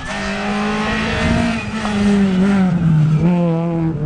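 Rally car engine held at high revs, its pitch dropping slightly about two and a half seconds in.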